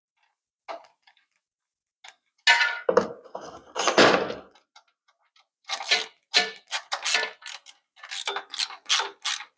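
Metal handling noises as the stainless steel header guard and hose clamps are shifted into place on the exhaust header, then a run of quick repeated clicking strokes as a clamp is tightened down.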